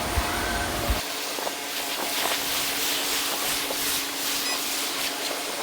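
Pressure washer spraying: a steady, dense hiss of the water jet with a faint steady hum underneath. The deep rumble beneath it drops away abruptly about a second in.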